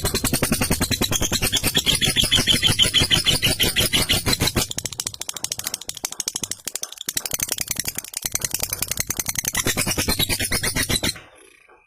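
Lovebird's long 'ngekek' chatter: a rapid, rattling run of repeated notes that goes on for about eleven seconds and stops shortly before the end.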